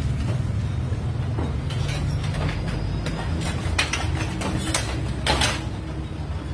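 A steady low engine rumble, with several sharp metallic clanks and rattles about two seconds in, around four seconds in and again near five seconds in.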